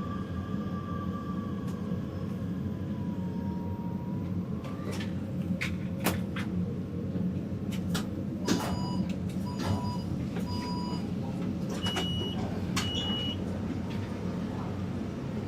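Taipei Metro train heard from inside the car, with a steady running rumble. The motor whine falls slightly and stops, then come several knocks of the sliding doors, a run of about five short electronic door-warning beeps and two longer beeps.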